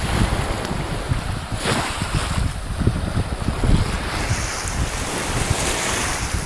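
Wind buffeting the microphone with a low rumble, over the steady wash of small waves; one wave swishes through about two seconds in.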